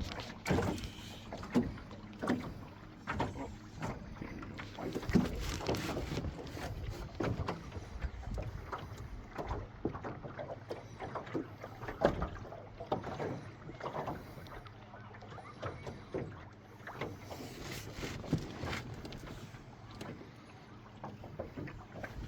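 Irregular knocks and clicks over splashy, windy noise from the fishing gear and water while a hooked trout is played on a fly rod.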